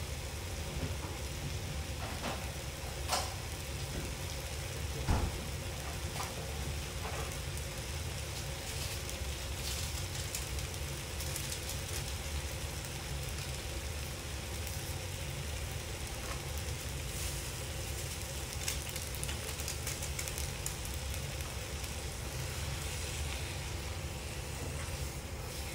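Pork belly, kimchi and glass noodles frying in a pan on a gas stove: a steady sizzle with scattered crackles, and two sharper pops about three and five seconds in.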